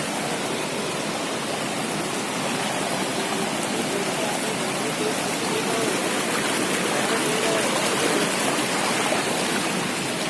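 Steady rush of water in heavy rain, an even, unbroken wash of noise that swells slightly in the middle.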